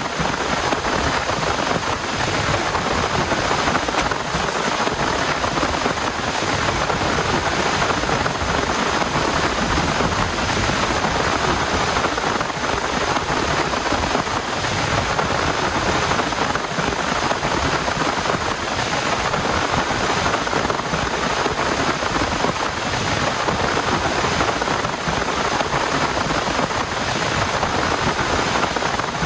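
Heavy rain falling steadily, a dense, even hiss of drops that neither builds nor fades.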